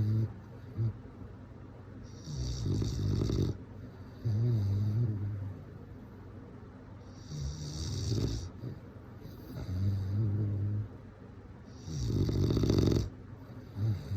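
Bulldog snoring: a harsh, rasping snore with a high hiss alternates with a lower, steady buzzing snore, the cycle repeating about every five seconds, three times.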